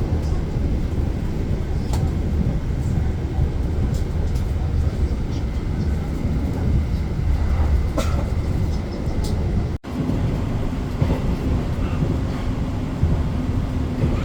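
Passenger train running on the rails, a steady low rumble heard from on board, with a few sharp clicks and knocks. The sound cuts out for an instant about ten seconds in, and a steady hum runs under the rumble after that.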